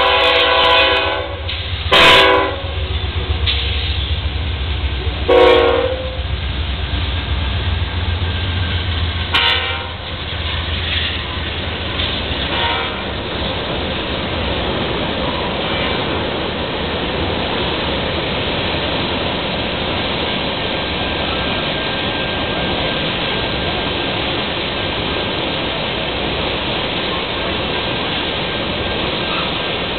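Freight train's diesel locomotives sounding their air horn in several blasts during the first ten seconds as they pass the crossing, over a low engine rumble. After that, a steady rush of loaded tank cars rolling by on the rails.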